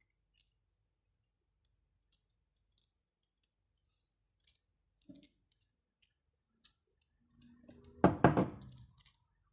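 Scattered light clicks and taps of small parts being handled, then a loud, rough rattling-scraping burst lasting about a second near the end.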